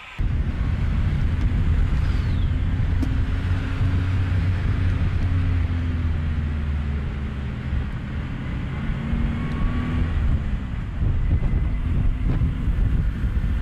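Motor vehicle engine and road noise: a steady low rumble with an engine hum that drifts slightly in pitch.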